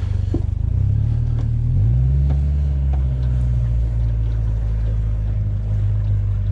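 Jet boat's engine running, coming up at the start, rising in pitch about two seconds in, then holding steady as the boat gets under way.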